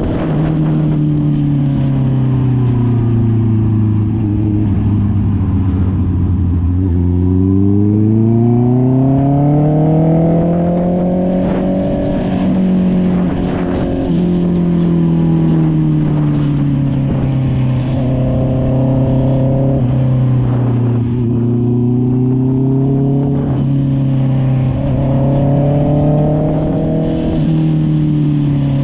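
Honda CB650R's inline-four engine breathing through an SC Project exhaust: the engine note falls away for several seconds, then climbs steadily from about eight seconds in as the bike accelerates, and afterwards holds at a cruising pitch with a few gentle rises and falls of the throttle.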